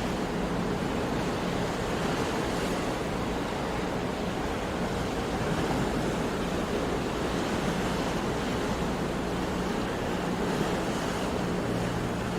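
Sea waves washing on a shore, a steady rush of surf that swells and eases gently.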